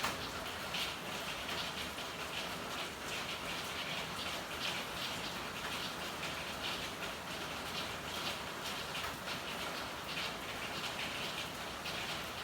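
Steady rainfall: an even hiss of rain with many small drop hits scattered through it.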